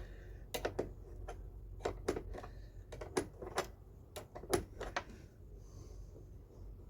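A series of light clicks and knocks from tools and parts being handled while working under the car's hood. They stop about five seconds in.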